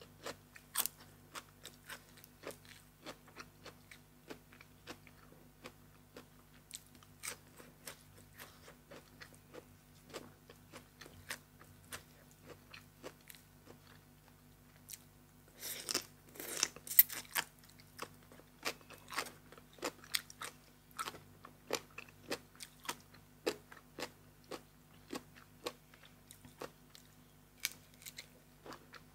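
Close-miked mouth sounds of a person eating: irregular crunching bites and wet chewing of crisp food. A dense, louder bout of crunching comes about sixteen seconds in.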